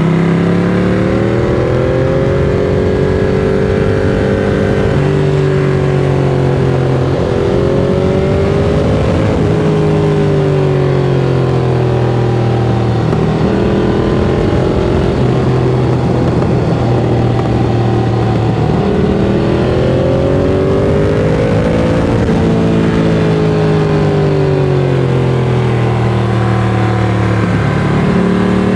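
Ducati Monster 695's air-cooled V-twin engine through a Mivv X-Cone aftermarket exhaust, heard from on board while riding. The engine note rises and falls several times as the bike accelerates, changes gear and slows, for example climbing near the start and dropping again around ten seconds in.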